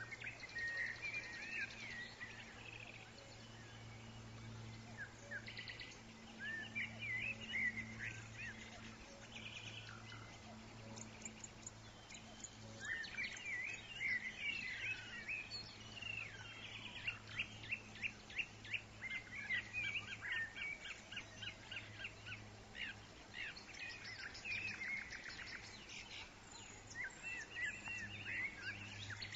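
Songbirds singing in many short chirps and fast trills, with a busy stretch of rapid repeated notes in the middle, over a steady low hum.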